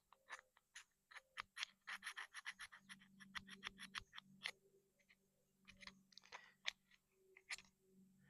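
Faint, irregular scraping and scratching strokes from a hand tool cleaning a metal surface on an outboard motor part, several a second, thickest about two to four seconds in.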